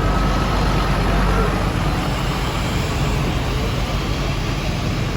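Tractor engines running steadily at a constant, loud level.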